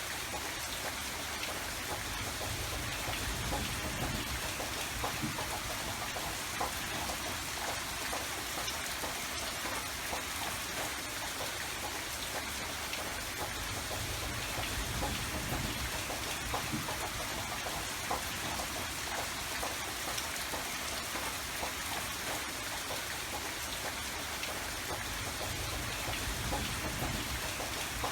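Steady rain falling, a continuous hiss with many small drop ticks over a soft low rumble.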